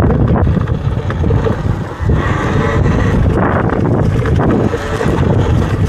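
Heavy wind buffeting on the microphone while riding a Talaria electric dirt bike along a trail, a steady loud rumble.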